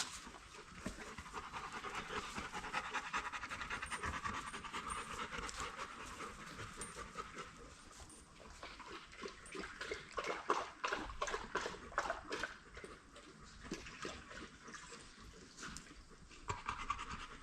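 A dog panting steadily in quick, short breaths.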